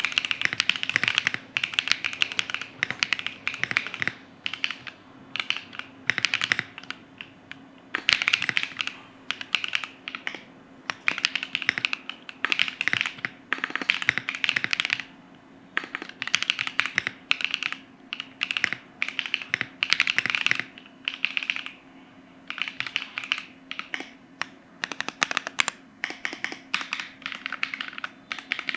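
Typing sound test on an Enter67 mechanical keyboard with SWK Yang switches and MW Sogurt keycaps: fast runs of keystrokes in bursts of a second or two, broken by short pauses. A faint steady hum sits underneath.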